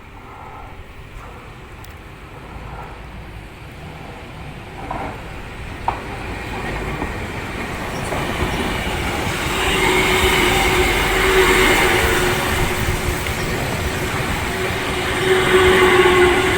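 Tokyu electric commuter train approaching, getting steadily louder over the first ten seconds or so and then running close by, with a steady whine in its sound.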